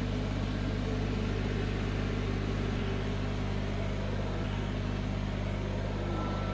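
Kubota BX23s tractor's three-cylinder diesel engine running steadily at a constant speed while it digs. A faint high whine comes in near the end.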